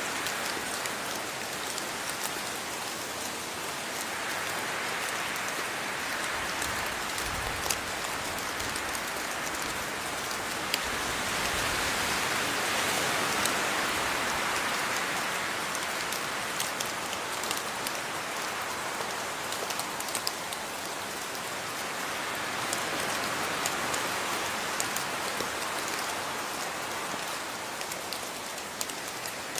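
Steady rain falling, with many individual drops ticking through it. The downpour slowly swells and eases, heaviest about halfway through.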